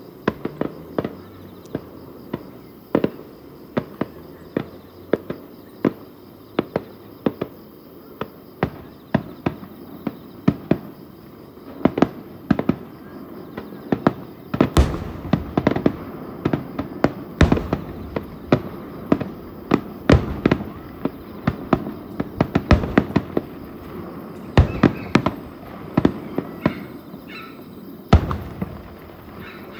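Fireworks display: shells bursting in a rapid, irregular string of sharp bangs, several a second, each with a short echoing tail, growing denser and louder about halfway through.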